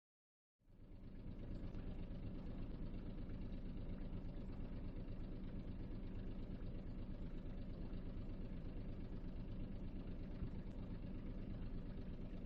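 A boat's engine running steadily at an even speed, cutting in suddenly about half a second in.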